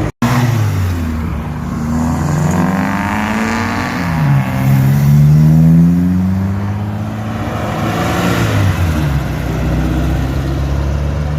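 Car engine accelerating away: its pitch climbs, drops sharply at a gear change about four seconds in, and climbs again to its loudest. It then falls back and runs steadily near the end.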